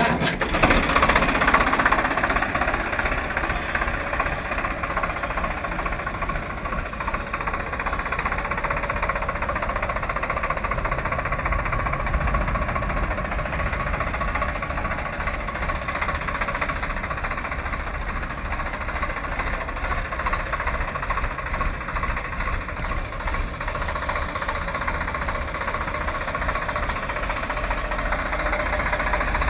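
Swaraj 742 XT tractor's diesel engine running steadily with a rapid knocking chug.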